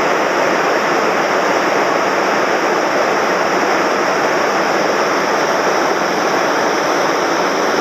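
A mountain stream swollen with floodwater after heavy rain, rushing steadily as a loud, even wash of fast, deep water.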